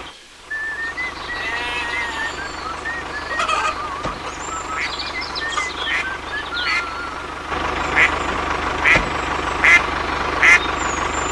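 Birds chirping and calling, with short warbling whistles scattered throughout, over a steady low hum.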